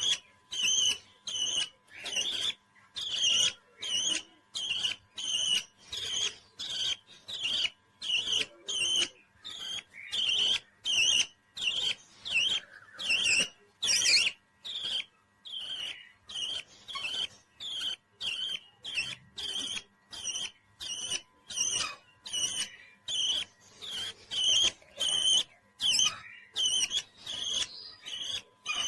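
Pet parrot chirping: short, sharp, high calls repeated about twice a second in a steady rhythm.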